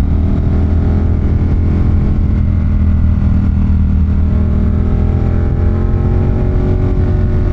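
Ducati Monster 1200's L-twin engine running steadily under way, its pitch rising slightly in the second half as it gently accelerates.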